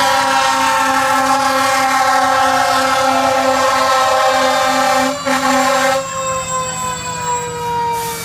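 Fire engine sirens winding down, their pitch falling slowly and steadily. Over them comes a rapid low pulsing tone and a loud rushing noise, and both cut off about six seconds in.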